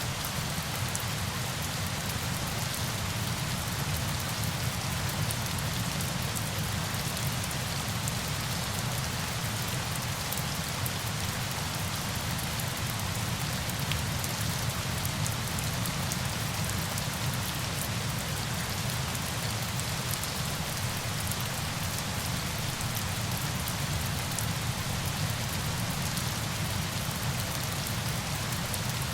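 Steady, even rush of falling water with a fine patter of drops and a low rumble underneath, unchanging throughout.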